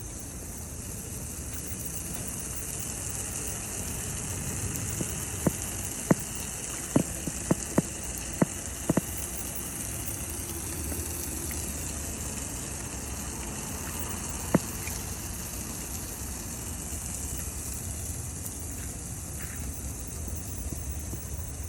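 Water spraying steadily in a home car wash, a constant hiss, with a quick run of sharp clicks about five to nine seconds in and one more near fifteen seconds.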